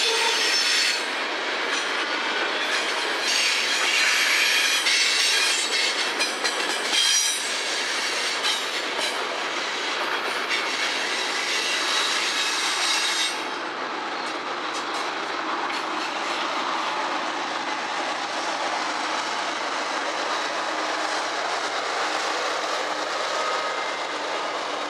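Kansas City Southern freight train of covered hopper cars rolling past: steel wheels on rail with clickety-clack and some high wheel squeal. About halfway through the squeal drops away and a steadier, quieter rolling noise carries on.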